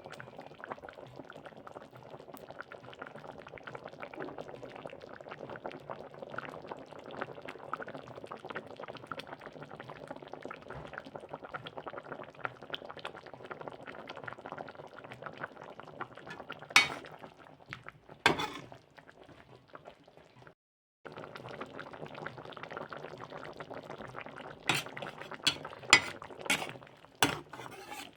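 Food bubbling steadily in a cooking pan. About two-thirds of the way in come two sharp knocks, and near the end a quick run of sharp taps on the pot or pan.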